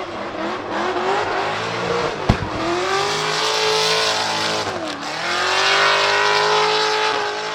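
Chevrolet LS7 V8 in a drift-built Nissan 200SX S13 pickup, revving hard with its pitch rising and falling, and one sharp exhaust crack about two seconds in. The revs dip near the middle, then climb and hold high while the tyres squeal.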